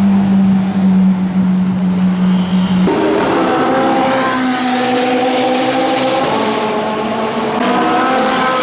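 Ferrari 458 Italia's V8 engine running on track: a steady held note for about three seconds, then a sudden change to a higher engine note that drifts up and down, climbing again near the end.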